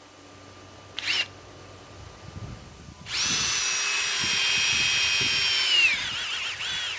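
Cordless impact driver running on a Flex 24-volt battery through a battery adapter. A brief whirr about a second in, then from about three seconds a loud, steady high-pitched motor whine that drops in pitch near the end as the tool bogs down.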